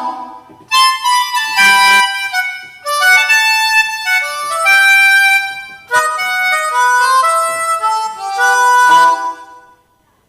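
Roland GW-8 arranger keyboard playing a melody of sustained notes on a wind-instrument-like voice, in several short phrases. It stops shortly before the end.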